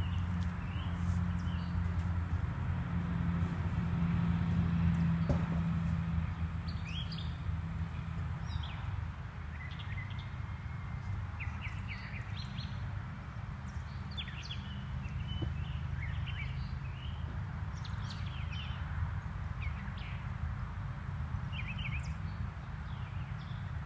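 Small birds chirping in short, scattered calls over a low steady hum, which is loudest for the first several seconds and then eases off.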